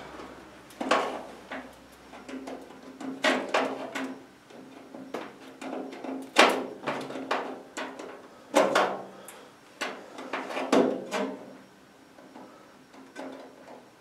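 Pliers working at a rivet in a stainless-steel sheet-metal hood: irregular metallic clicks, clanks and scrapes, with a louder clank every two seconds or so and a quieter stretch near the end.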